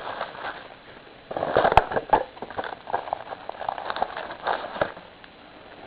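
Card box and packaging being handled: a run of light crackles, taps and rustles.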